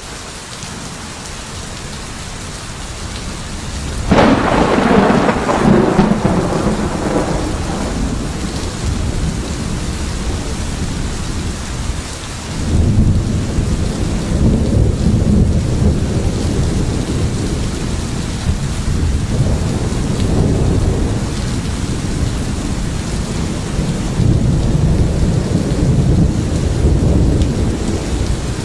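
Steady rain with thunder: a sharp thunderclap about four seconds in that fades out over a few seconds, then long low rumbles of thunder from about twelve seconds on.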